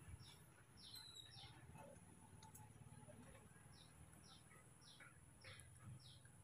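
Near silence with a bird faintly chirping: short high chirps repeated about twice a second, in two runs with a pause of a couple of seconds between them.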